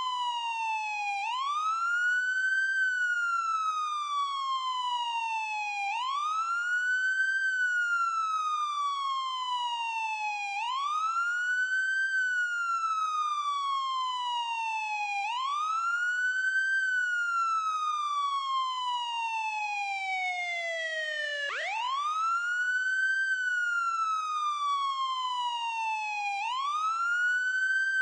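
Ambulance siren wailing: the pitch sweeps up quickly, then glides slowly back down, over and over about every four and a half seconds, with no traffic noise behind it. About three quarters of the way through, one fall runs longer and lower before the next rise.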